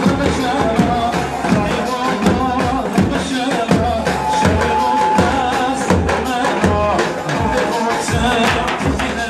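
Turkish band music: an ornamented, wavering melody over a steady drum beat.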